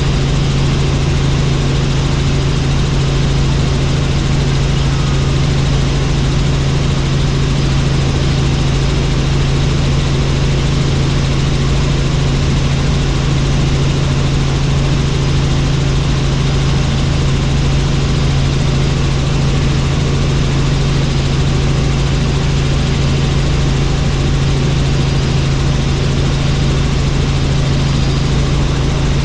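Helicopter in flight: steady, loud engine and rotor noise with a strong low hum that does not change.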